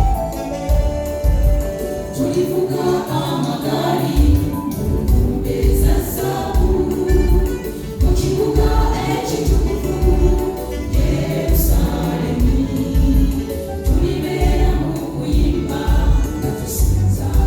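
Gospel choir singing over a steady drum beat, with the low beat dropping out briefly about two seconds in and returning about two seconds later.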